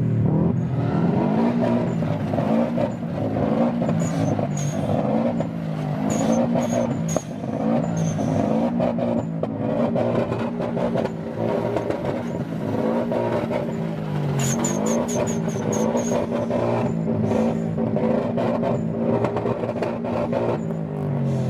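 A car engine revving hard on a track, its pitch climbing and dropping again and again as it accelerates and backs off, with short sharp cracks now and then.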